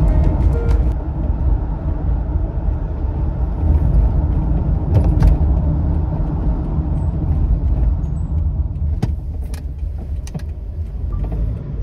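A car's low, steady rumble, with a few sharp clicks.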